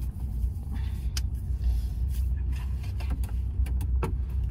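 Car engine idling with the air conditioning on, a steady low rumble heard from inside the cabin, with a few light clicks and rustles of handling.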